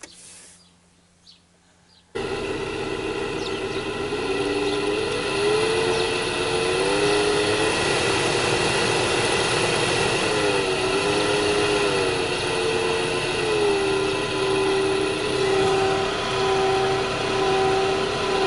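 Opel Vectra C heater blower motor, switched on about two seconds in and then running loud and steady, with a rush of air and a hum that wavers up and down in pitch. The growling hum is the sign the owner takes for a faulty fan motor.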